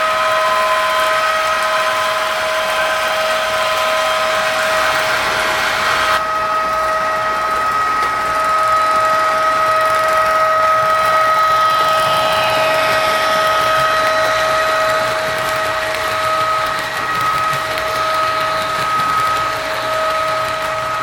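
Märklin HO model locomotive running, its small electric motor and gearing giving a steady whine with a second, higher tone over a hiss; the hiss drops off about six seconds in.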